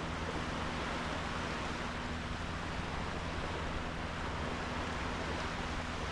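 Sea waves washing on a sandy beach, an even, steady rush with no distinct breaks. A low steady hum runs underneath.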